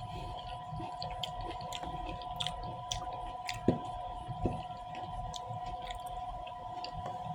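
Close-miked chewing of soft, juicy fruit: wet mouth clicks and smacks scattered throughout, with a couple of sharper smacks around the middle.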